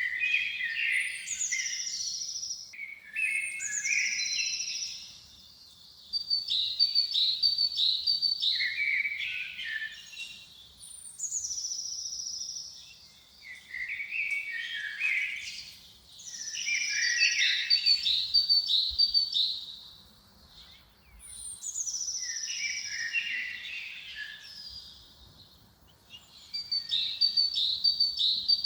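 A songbird singing the same phrase over and over, about every four to five seconds: each phrase opens with a high falling whistle and a fast trill, then runs into a jumble of lower chirpy notes, with short quiet gaps between phrases.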